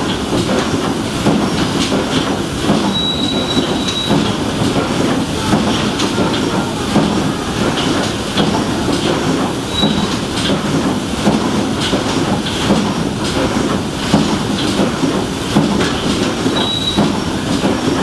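Steamboat's steam engine running steadily, with a regular mechanical clatter; a thin high tone sounds briefly three times.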